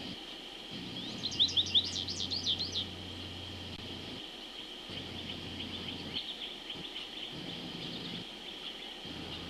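A bird calling: a fast run of high, downward-slurred notes lasting about a second and a half, then a fainter run of similar notes a few seconds later, over a steady high-pitched drone.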